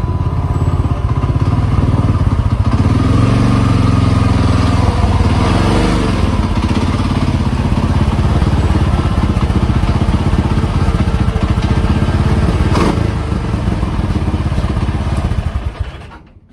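Motorcycle engine running steadily under way, with rushing wind noise, fading out near the end.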